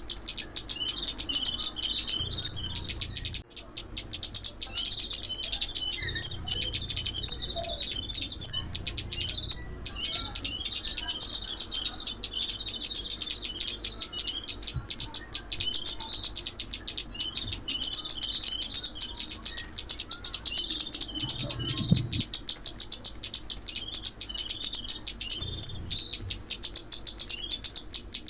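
Rapid, high-pitched chirping and twittering of the small songbird known in Vietnam as 'chim ốc mít', a continuous lure call for trapping, with brief pauses between bouts. A thin, steady high tone runs beneath it.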